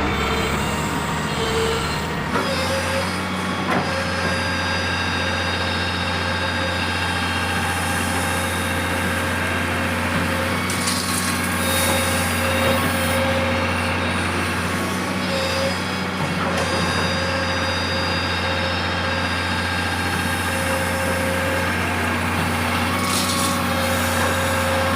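Heavy diesel engines of a large Komatsu excavator and dump trucks running steadily with a deep hum, broken by two short hisses, about eleven seconds in and near the end.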